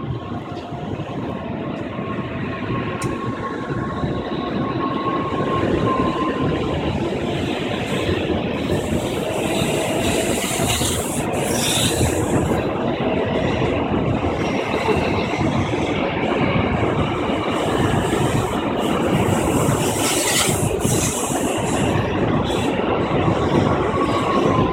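N700 series Shinkansen train pulling out of a station, its running noise growing steadily louder as it gathers speed, with a faint rising whine a few seconds in.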